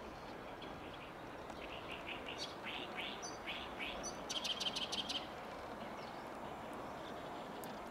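Small birds calling: a run of short high chirps, then a quick rattling series of about ten notes in under a second, over steady outdoor background noise.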